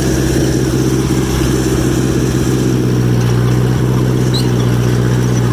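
John Deere 1010 crawler dozer's engine running steadily under light load, with a strong low hum that holds level throughout.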